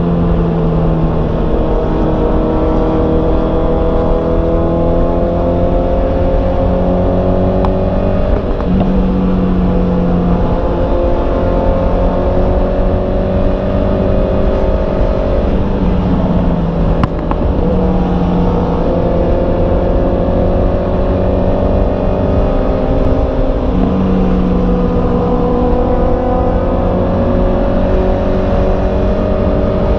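Honda CB650R's inline-four engine running under way, its pitch climbing slowly and dropping back a few times as at gear changes, over a steady low wind rumble.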